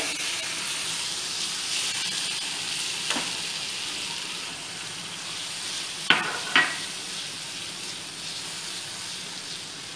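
Onion-spice masala with freshly added tomato purée sizzling in mustard oil in a nonstick kadai as it is stirred with a plastic spatula. A few sharp knocks of the spatula on the pan, one about three seconds in and two close together about six seconds in.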